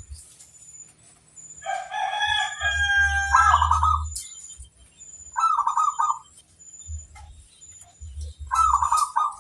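Zebra doves (perkutut) cooing: three short trilling coo phrases, the first about three seconds in, the others near the middle and the end. Just before the first coo, another bird gives a longer, drawn-out call of several held notes.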